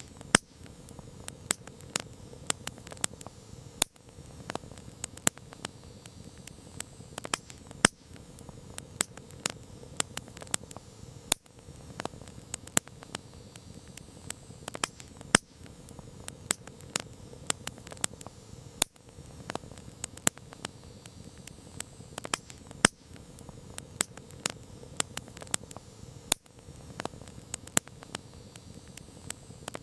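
Campfire crackling: burning wood giving irregular sharp pops and snaps, a few a second, over a low steady hiss.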